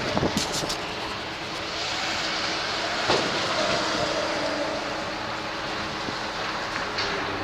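Heavy truck's diesel engine running steadily under a hum, with a couple of short knocks about three seconds in.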